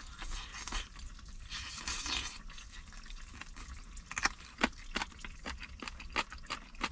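Eating grilled chicken wing drumettes: soft scraping and crunching at first, then a series of sharp clicks and taps from about four seconds in.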